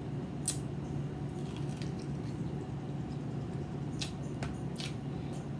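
A person chewing and smacking their lips while eating barbecue, with a few short wet mouth clicks over a steady low hum.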